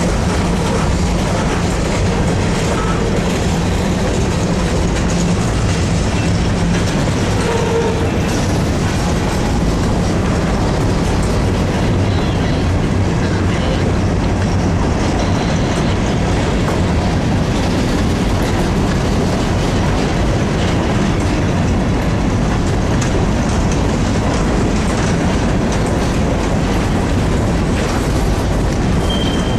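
Long freight train of covered hoppers and boxcars rolling past at close range, shoved from the rear by its locomotives: a steady rumble of steel wheels on rail.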